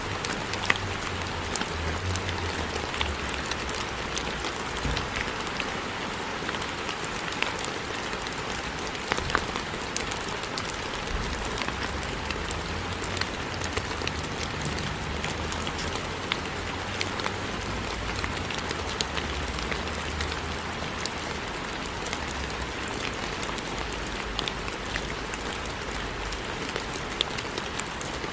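Steady rain falling, with many individual drops landing as sharp ticks over an even hiss. A low rumble comes and goes underneath.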